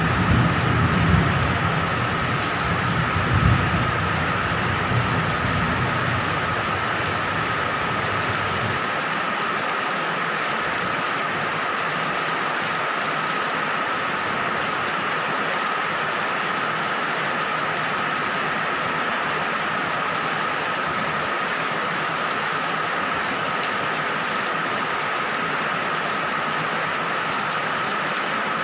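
Steady heavy rainfall, an even hiss of rain. A low rumble sits under it for the first several seconds and stops abruptly about nine seconds in, and a thin steady tone runs underneath throughout.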